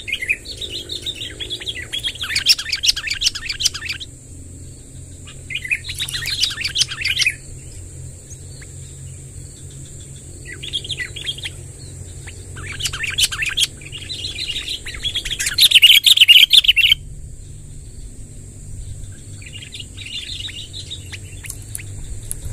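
Sooty-headed bulbul (kutilang) singing its chattering, rolling song in repeated bursts lasting one to four seconds, with pauses between them. The loudest burst comes about three-quarters of the way through. A steady high-pitched whine sounds underneath throughout.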